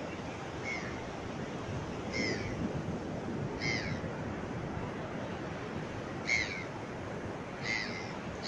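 A bird giving short repeated calls, five in all, about a second and a half apart, over a steady rush of surf.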